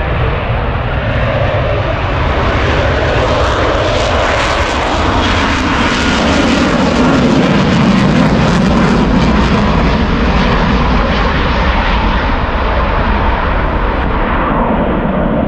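Loud roar of a jet aircraft flying past, building to its loudest about halfway through and easing slightly toward the end.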